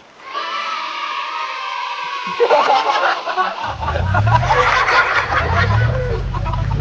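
A held electronic-sounding tone, then a busy stretch of chattering, giggly voice-like sound effects, and from about halfway in a background music track with a steady low bass line.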